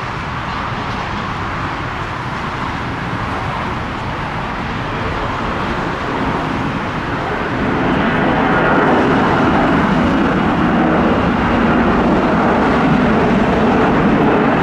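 Jet engines of a Lufthansa Airbus A340-300, its four CFM56 turbofans, giving a steady roar that swells and grows louder about eight seconds in as the airliner comes closer.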